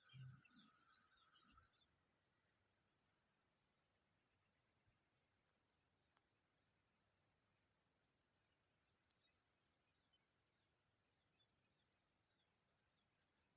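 Faint, steady high-pitched insect chorus, with scattered short bird chirps over it. A few low thumps sound in the first two seconds.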